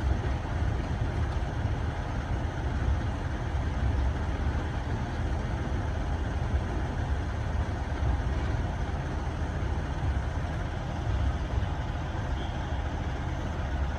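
Loaded gravel freight train rolling past, a steady low rumble.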